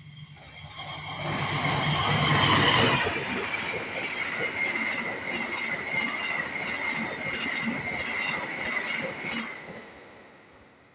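Turangga express train passing at speed. A heavy diesel locomotive rumble swells over the first three seconds. Then the coaches' wheels clack rhythmically over the rail joints under a steady high-pitched ring, fading away about ten seconds in.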